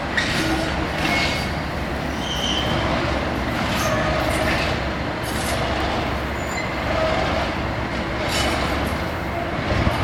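Class 37-hauled nuclear flask train rolling past: a steady rumble of wheels on rail, with irregular clicks over the rail joints and a few short wheel squeals.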